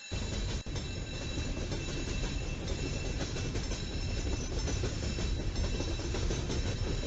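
A train passing over the level crossing: a loud, steady rumble of wheels on rail with a few sharp clacks at the rail joints, starting abruptly. Above it, the crossing's warning bell keeps up a steady high ringing.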